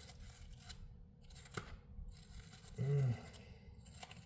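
Faint clicks and light scraping of small parts being handled, with one sharper click about a second and a half in, and a brief hummed voice sound about three seconds in.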